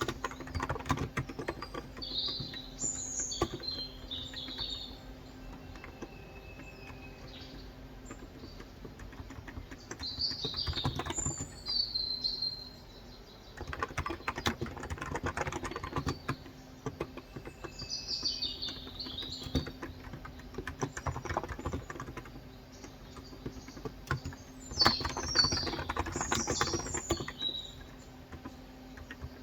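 Typing on a Cox Endeavor 35 g electrostatic capacitive (contactless) tenkeyless keyboard, in several bursts of rapid keystrokes with short pauses between. Birds chirp outside in short high phrases about four times, mixed with the typing.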